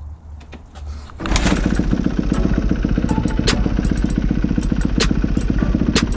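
Kawasaki KX250 dirt bike engine running low and quietly, then about a second in it opens up loudly and keeps running hard under throttle, with a few sharp clicks over it.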